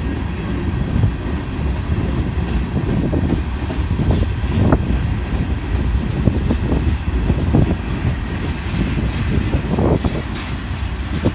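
A train passing close by: a steady low rumble with irregular knocks and clacks from the cars rolling over the track.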